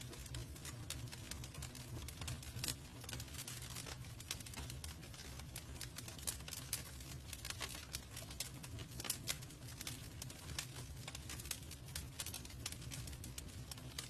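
Campfire burning: irregular sharp crackles and snaps over a steady low rumble.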